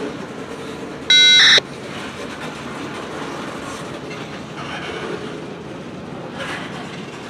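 Freight train cars rolling past with a steady clickety-clack. About a second in, a short, loud electronic beep sounds over it.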